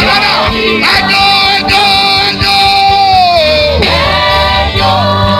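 Live gospel worship music: a band playing with singing over a steady low beat. One long held note slides down in pitch about three and a half seconds in.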